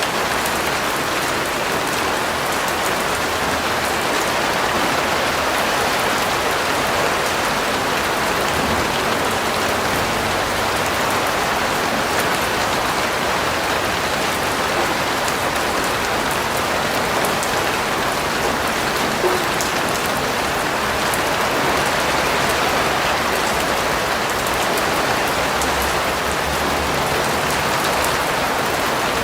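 Steady rain falling on a surface, an even hiss thick with fine drop patter.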